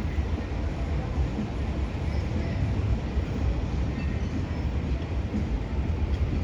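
Steady low rumble of downtown city ambience, with no single event standing out.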